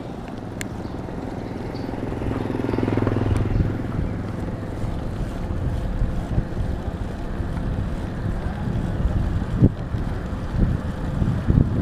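Wind rushing over the microphone, with a motor engine running close by and loudest about two to four seconds in, and a few knocks near the end.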